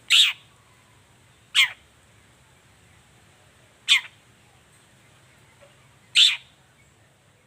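Long-tailed shrike (cendet) giving four short, sharp calls, each a quick downward-sweeping note, spaced a second or two apart.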